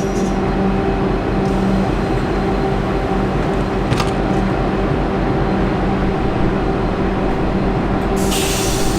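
V/Line N class diesel locomotive's EMD V12 two-stroke engine running at a steady, throbbing idle. A sharp click comes about four seconds in, and a burst of air hiss starts near the end.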